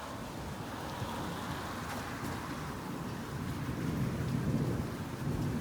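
Steady rain falling, with a low roll of thunder swelling about two-thirds of the way through.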